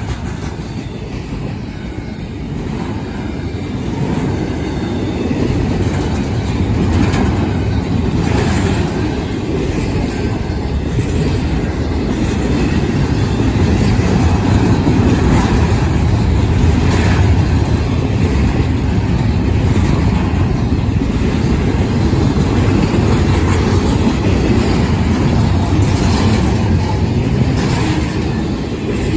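CSX intermodal freight train passing at speed: a steady rush of steel wheels on the rails with scattered clanks, growing louder through the first half.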